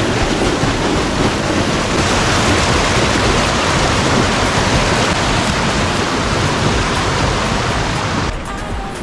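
Small waterfall rushing: a loud, steady hiss of falling water with no pitch to it, cutting off suddenly near the end.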